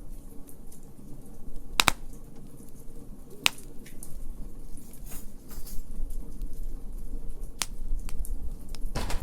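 Wood fire crackling: a few sharp pops and fainter ticks over a low steady rumble.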